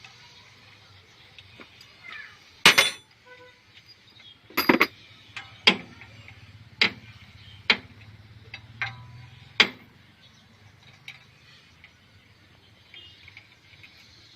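Sharp metallic clinks and knocks of hand tools against metal parts, about seven separate strikes: two loud ones around three and five seconds in, then roughly one a second until about ten seconds in.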